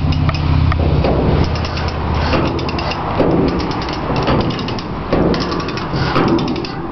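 Metal ratchet mechanism clicking in rapid runs, as when a hand ratchet is worked under load, with a low steady engine hum in the first second or so.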